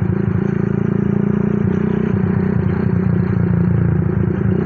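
Honda CB's single-cylinder Tiger engine, bored up to 200cc, running at a steady speed through a DOS aftermarket exhaust, its firing pulses giving a fast, even exhaust note.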